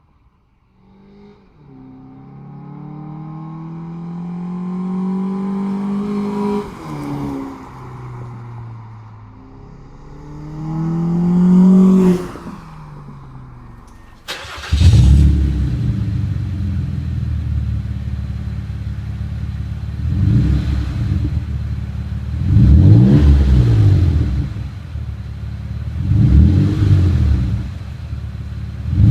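Mazda 6 exhaust: a car accelerates hard through a gear change and drives past about twelve seconds in, its engine note dropping as it goes by. After an abrupt cut a second Mazda 6 idles and is revved four times, each rise and fall brief.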